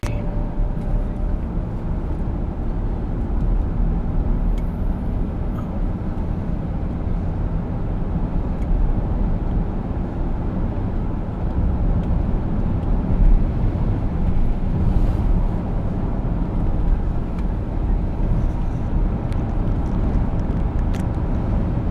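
Steady low rumble of engine and tyre noise, heard from inside a moving vehicle's cabin.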